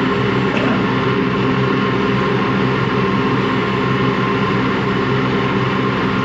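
Washing machine spinning empty on its spin cycle: a steady mechanical running sound with a grinding noise, which the owner takes for worn motor or drum bearings.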